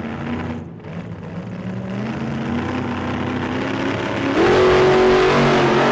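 Kawasaki Ninja 300's parallel-twin engine accelerating hard, its pitch climbing over the first few seconds. It gets louder about four and a half seconds in and holds at steady high revs.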